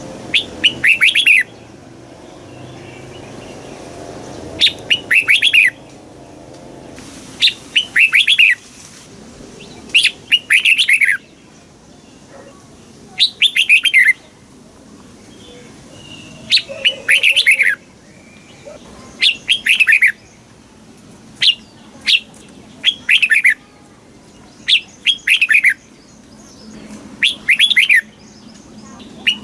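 Red-whiskered bulbul singing: short bright phrases of several quick notes, repeated about every two to three seconds.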